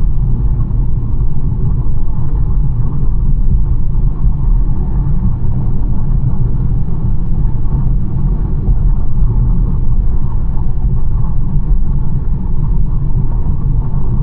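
BMW 1 Series on the move: steady low rumble of tyre and engine noise at an even speed, with no revving.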